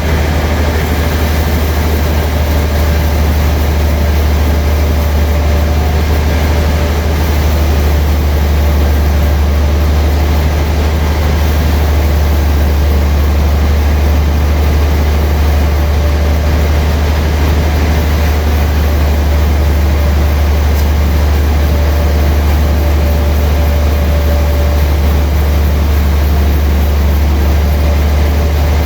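Sawmill machinery running steadily, a loud, even low hum with no change in pitch or load.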